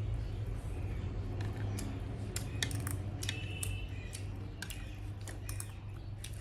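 Eating sounds: an irregular scatter of sharp clicks from utensils on dishes and chewing, over a steady low hum.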